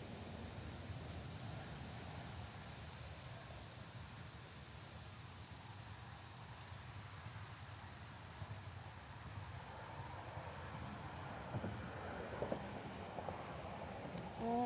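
Outdoor insect chorus: a steady, unbroken high-pitched chirring, over a low background rumble. A few faint clicks come about twelve seconds in.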